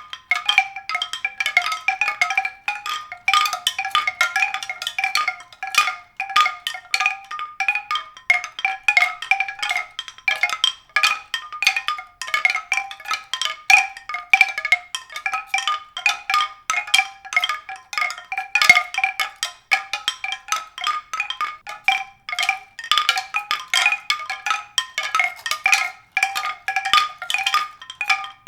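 Mallet percussion music: a continuous run of quick, bright struck notes.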